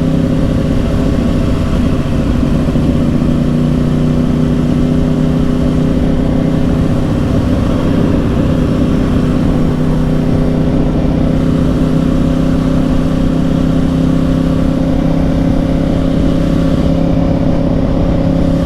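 2010 Yamaha R1's crossplane inline-four with Yoshimura exhausts running at a steady cruise, its engine note held at one pitch throughout, with wind rushing over the microphone.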